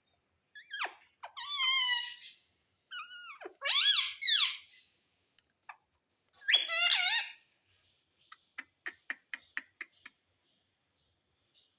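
Pet parrot giving three loud, high-pitched warbling calls a couple of seconds apart, followed by a run of quick soft clicks.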